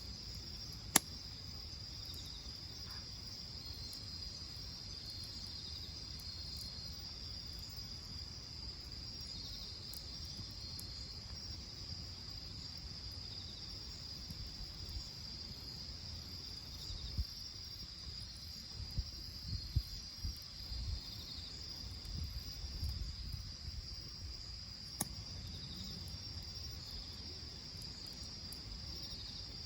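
Insects chirping: a steady high, pulsing trill that runs on without a break. A sharp click about a second in, another near 25 seconds, and a few soft low thumps between about 17 and 24 seconds.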